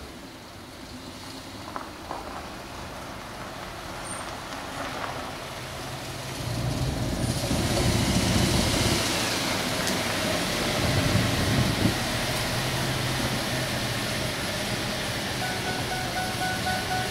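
A vehicle's engine running and getting clearly louder about six seconds in, as if it is driving up close, then running steadily. A steady high tone comes in near the end.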